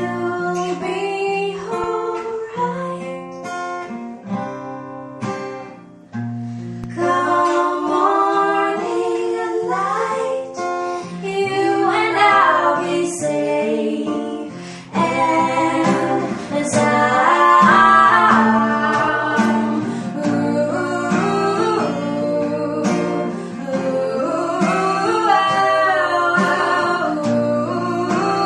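Acoustic guitar playing chords, with a singer's voice joining about seven seconds in and singing a slow melody over it.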